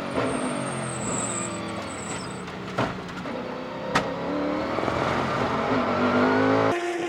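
Sports-car racing engines running at speed, their pitch rising and falling as the cars accelerate and shift. There are two sharp cracks about three and four seconds in, and the sound changes abruptly near the end.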